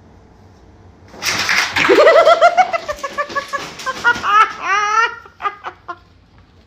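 A person laughing in a run of quick, high-pitched giggles that starts about a second in and rises in pitch toward the end.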